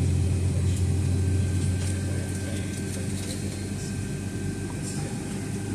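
Steady low engine hum heard inside the cabin of a Boeing 757 with its engines running at low power, with faint light clicks and rattles.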